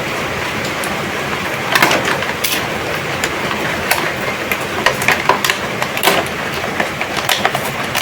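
Scattered clicks and knocks of plastic toy parts and packaging being handled, over a steady background hiss.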